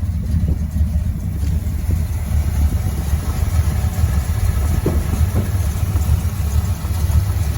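Cammed Dodge 318 small-block V8 idling just after a cold start, a steady low rumble; the owner says it is flooded.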